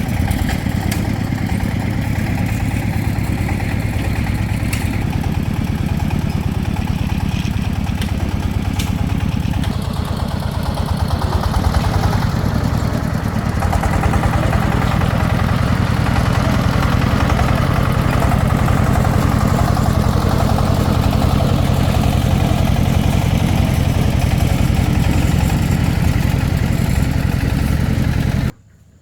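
Single-cylinder diesel engine of a restored công nông farm truck running steadily at idle, picking up a little about ten seconds in. The engine sound stops abruptly near the end.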